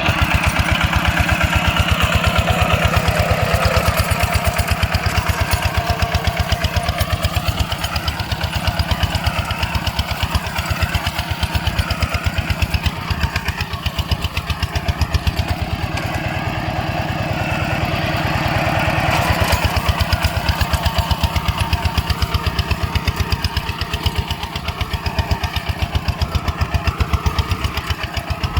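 ZT 155 tractor engine running with a fast, even firing beat, briefly a little louder about two-thirds of the way through.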